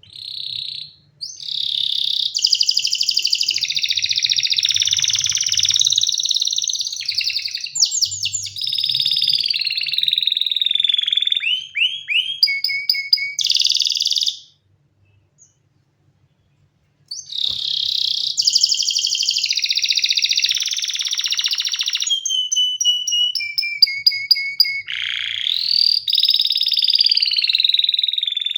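Domestic canary singing long, fast phrases of rolls, trills and chirps, breaking off for about two seconds partway through and then starting again.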